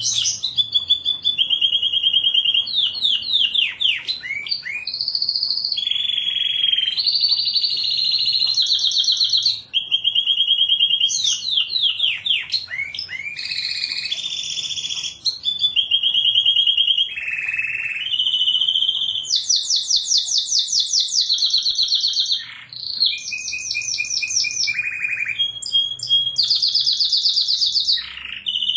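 Domestic canary singing continuously: high-pitched trills of rapidly repeated notes, each run held for a second or two before changing to a different note type.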